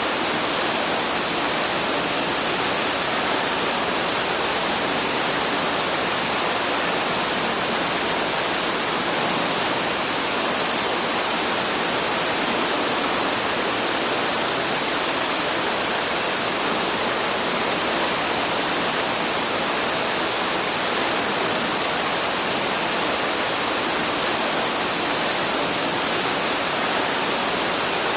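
Waterfall in a forest, falling water making a steady, even rush with no break or change.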